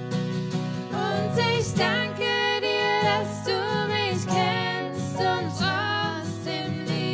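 Music: an acoustic guitar strumming steady chords, with a voice singing a melody over it from about a second in until just before the end.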